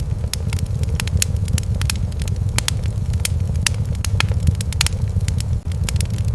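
Wood fire crackling in a fireplace: irregular sharp pops, several a second, over a steady low rumble.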